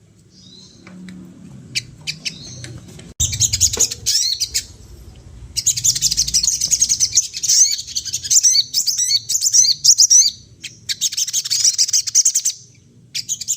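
A sogon songbird singing in full voice: rapid, high-pitched chattering bursts of chirps and trills, several seconds long and separated by short pauses.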